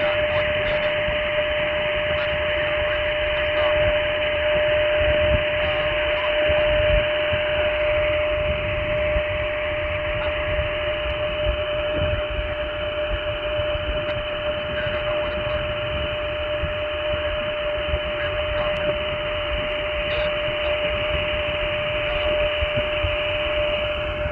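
An 80 GHz amateur-band beacon heard on a radio receiver: a steady unbroken carrier tone whistling through a constant hiss of receiver noise.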